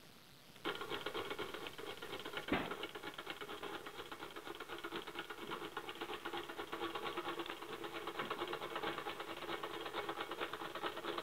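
Rider-Ericsson 1/8-scale Stirling pumping engine model running: a rapid, even clatter of its moving parts that starts suddenly about half a second in, with one louder knock about two and a half seconds in.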